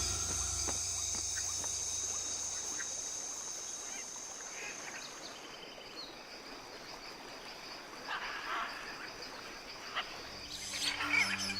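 Rainforest ambience: a steady high-pitched insect drone that fades out about halfway through, with scattered short animal calls. Music fades out at the start and comes back in near the end.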